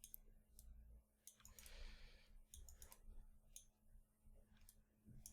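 Faint, irregular clicking of computer mouse buttons and keys, a dozen or so short clicks scattered unevenly.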